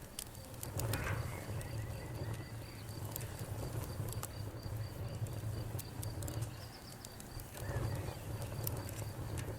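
Wood fire crackling: scattered sharp pops and snaps over a steady low rumble. A faint, evenly repeating high chirp runs in the background.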